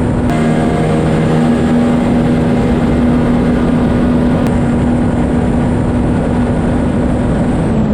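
Racing jet skis running at full throttle in a drag race: a loud, steady high engine note over a rushing noise, which begins to fall in pitch right at the end.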